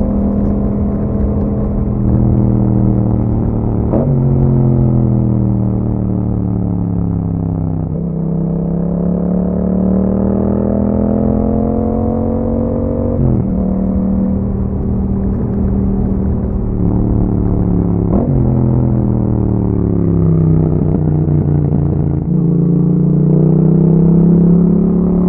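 Yamaha MT-07's 689 cc parallel-twin engine through an Akrapovic exhaust, heard on board while riding: the revs climb and fall as the bike accelerates and eases off, with several sudden steps in pitch at gear changes.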